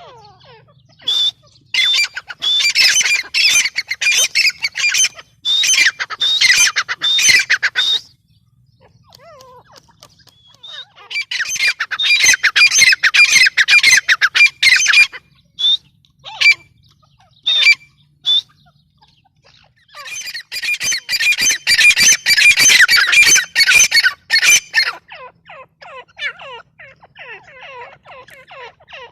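Grey francolin (teetar) calling: three loud bouts of rapid, harsh repeated notes, with softer scattered calls in between and a run of soft falling notes near the end.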